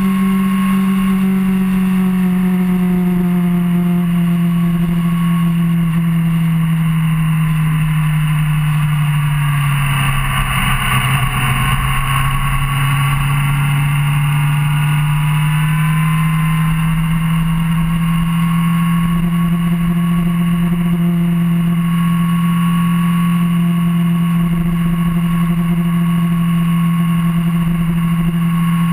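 Motorcycle engine running steadily at highway speed, with wind noise over it. The engine note drops about ten seconds in, then rises slowly back over the following several seconds.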